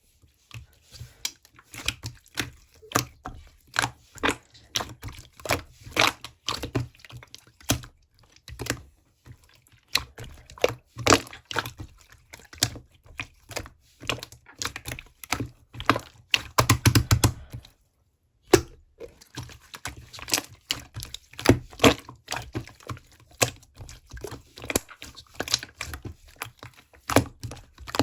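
Rapid, irregular close-up clicks and taps, with a short break about eighteen seconds in.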